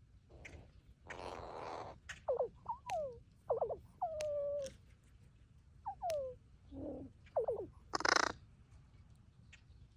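Crow making a string of soft, unusual calls: short whistle-like notes that fall in pitch, one held note about four seconds in, and a couple of harsh rasping calls, one near the start and one about eight seconds in.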